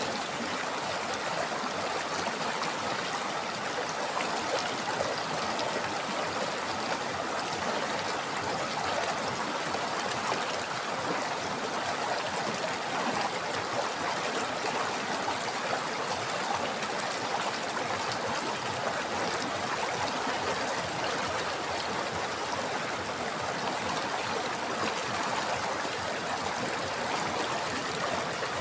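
Steady rushing and gurgling of a river flowing over rocks, unchanging throughout.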